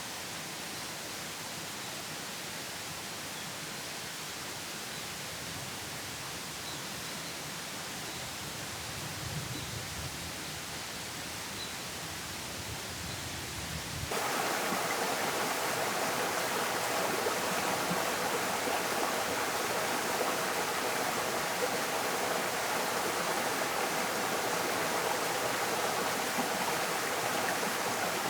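Steady outdoor rushing noise with a few faint high chirps. About halfway through it jumps abruptly louder and fuller.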